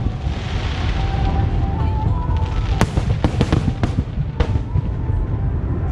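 Fireworks display: aerial shells bursting in a constant low booming, with sharp cracks, several close together about three seconds in and another near four and a half seconds, and a hissing crackle about a second in.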